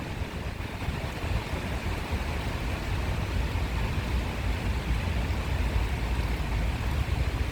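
Steady outdoor background noise: a low, uneven rumble with a hiss above it.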